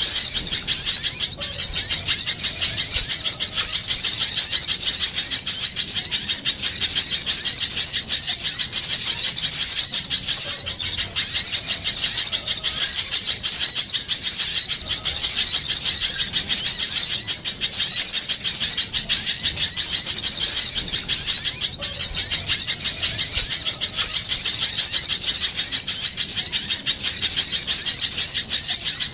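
Dense, unbroken chatter of many small birds: rapid, overlapping high-pitched chirps and twitters. It is a bird-lure recording of agitated, noisy small birds.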